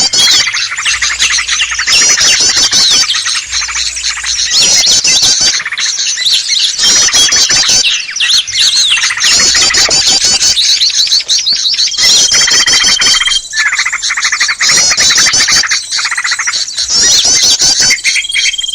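Dense, loud chorus of many small birds chirping and twittering rapidly and without pause: a bird-lure (pikat) recording of agitated small songbirds, used to draw wild small birds in. A long, steady, high whistled note sounds twice, about two-thirds of the way through and again near the end.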